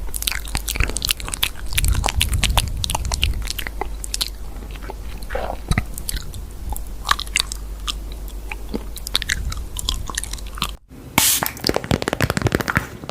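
Close-miked crunchy chewing and biting, a dense run of irregular sharp crunches and clicks, with a brief break about 11 seconds in.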